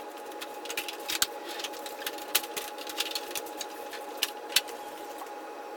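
Irregular sharp clicks and rattles of treadmill parts being handled and shifted, over a steady whine.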